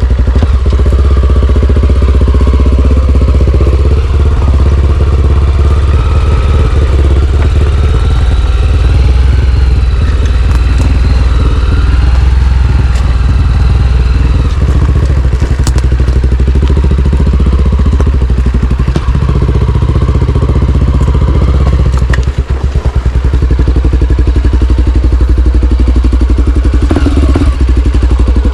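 Single-cylinder dirt bike engine running loud and close under throttle, with brief drops in power about two-thirds of the way through.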